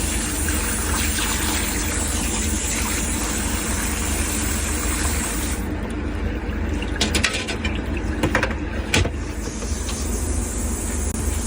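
Custom refrigeration unit's top-mounted machinery running noisily: a steady low hum with a hiss that drops away about halfway through, then a few sharp rattling clicks.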